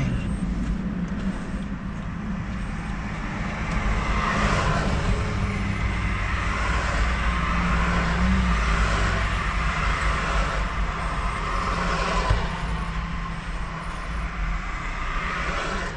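Steady motor-vehicle rumble, with a broad swell of noise that builds a few seconds in, peaks around the middle and fades, like traffic going past.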